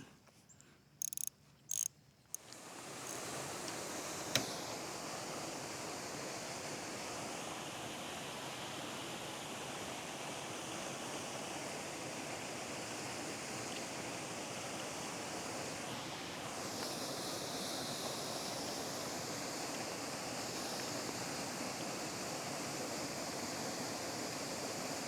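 Steady rushing of running river water, which comes in about two and a half seconds in after a few faint ticks, with a single sharp click shortly after.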